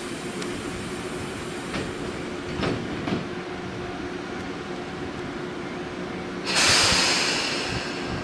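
Tobu Tojo Line electric train: a steady hum with a few clunks, then a loud hiss that starts suddenly about six and a half seconds in and fades over a second and a half.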